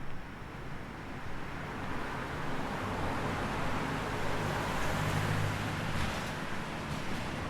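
A car passing on the street: tyre and engine noise swells, is closest about five seconds in with a low engine hum, then eases away.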